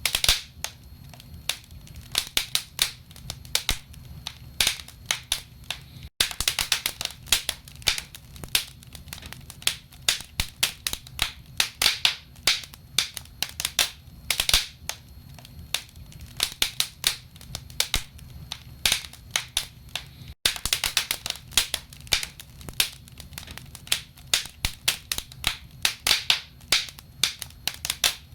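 Wood fire burning in a fireplace: logs crackling and popping in irregular clusters over a low steady rumble. The sound cuts out for an instant twice.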